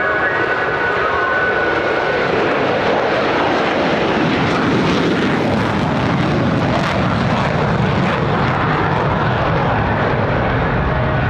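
A formation of F-35A Lightning II fighters flying past, the jet roar of their Pratt & Whitney F135 turbofans swelling toward the middle and then easing off.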